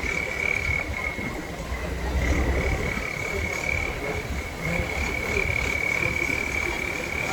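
Heavy truck engine rumbling low, with a steady high-pitched whine held over it.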